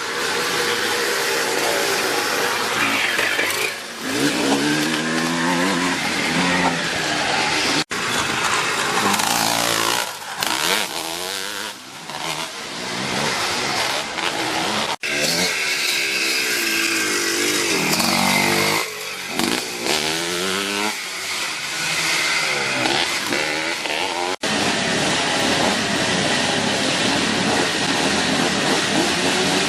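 Classic twinshock motocross bikes racing, their engines revving up and down as they pass and accelerate, heard in several short clips joined by abrupt cuts.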